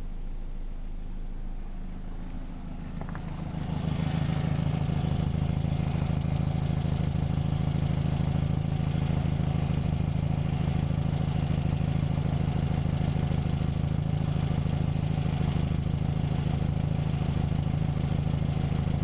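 2000 Volkswagen Passat engine running steadily at idle; about three seconds in the sound grows louder and then holds steady.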